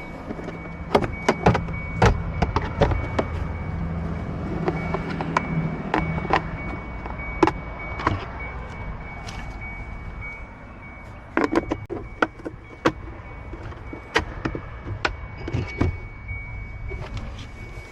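Irregular plastic clicks and knocks as the cabin air filter cover is fitted and clipped back in, with a faint steady high tone underneath.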